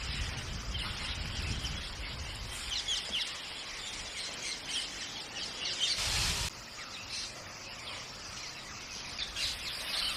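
Birds chirping, many short high calls over a steady background hiss, with a brief louder rush of noise about six seconds in.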